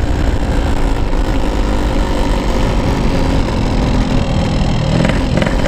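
Yamaha RX-King's two-stroke single-cylinder engine running as the motorcycle is ridden, with steady wind noise on the helmet microphone from the open visor.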